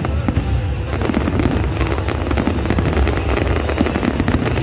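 Aerial fireworks display going off continuously: a dense crackle of many small bursts over a steady low rumble of shell explosions.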